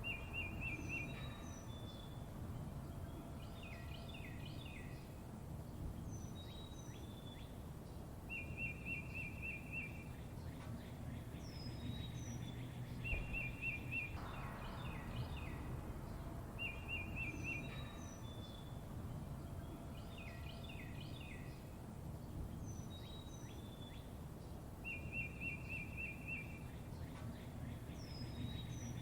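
Songbirds chirping: short falling chirps and high notes, with a quick even trill of about a second and a half coming back every few seconds. Under them runs a steady low rumble of background noise.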